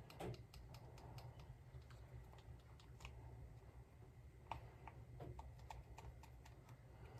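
Small plastic baggie being handled: faint, irregular little clicks and crinkles, over a low steady hum.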